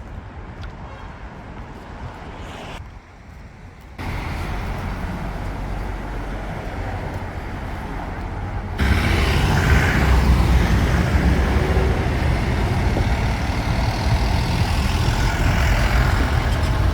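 Street traffic noise from passing road vehicles, in a few abruptly cut segments: quieter at first, louder from about four seconds in and louder again from about nine seconds in.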